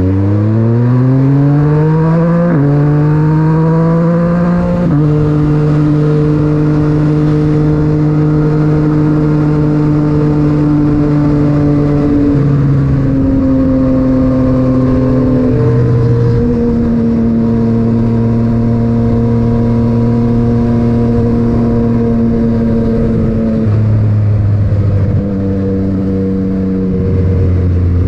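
Yamaha MT-09 three-cylinder engine through an Akrapovic titanium exhaust, heard onboard while riding. The revs climb hard through two upshifts in the first five seconds, then settle to a steady cruise with a few smaller throttle and gear changes.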